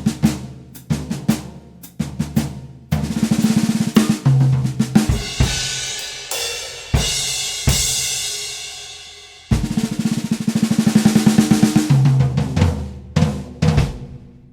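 Drum kit played with snare drum hits and fast snare rolls over bass drum strokes, with long ringing crashes twice, trailing off into a few last strokes near the end.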